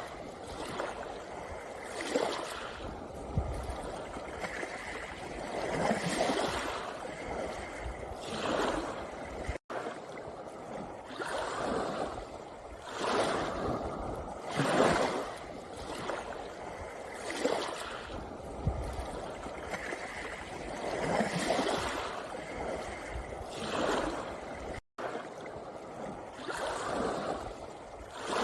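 Small sea waves washing in and out over a pebble beach, a hissing surge every couple of seconds. The sound drops out for an instant twice.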